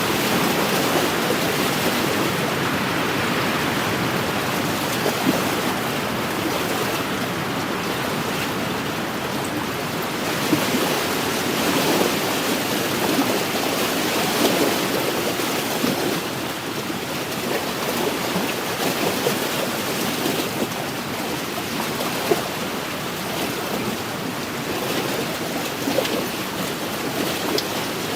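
Wind-driven waves lapping against a lakeshore: a steady wash of water with frequent small splashes and a few louder slaps.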